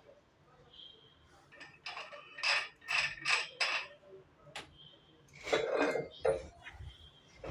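Metal gym weights clinking and clanking: a quick series of sharp metallic knocks, then a heavier clank about five and a half seconds in.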